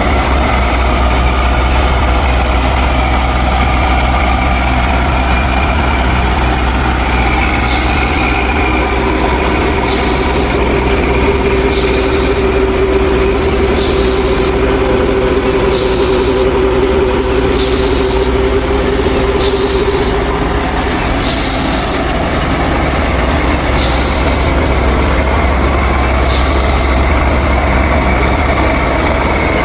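An engine running steadily at idle with a deep, even hum, and a faint tick about every two seconds through the middle.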